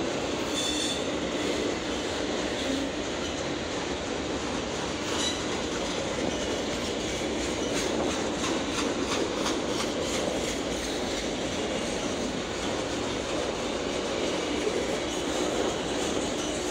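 Autorack freight train rolling past: a steady noise of steel wheels on rail, with wheels clicking over rail joints and a couple of brief high wheel squeals.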